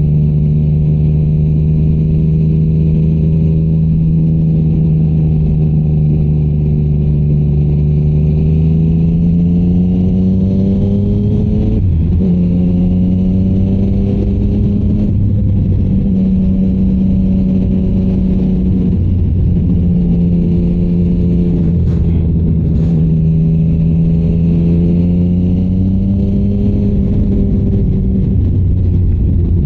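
Yamaha MT-09's inline three-cylinder engine through a Shark Street GP exhaust, ridden at steady revs. The note climbs gradually for a few seconds near the middle and then holds, with several brief dips as the throttle is eased or gears change.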